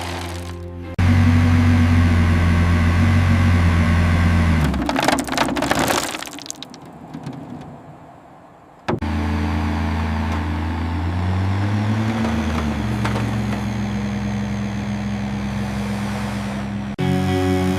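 Vehicle engine running steadily, then a short clattering stretch as it fades; after a lull a second engine starts up and runs on, its pitch rising and falling briefly partway through, before it cuts off near the end.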